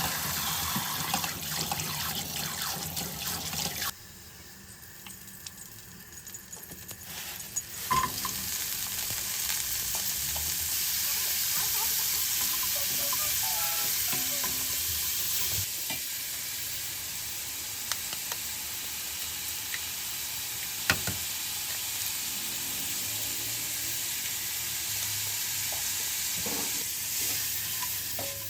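Water running from a tap for the first few seconds. After a short lull, food sizzles steadily in a frying pan from about eight seconds in, with a few sharp clicks.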